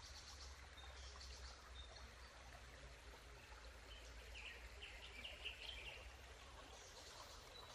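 Faint rushing of a stream under quiet forest ambience, with a bird chirping a quick run of short high notes about four to six seconds in.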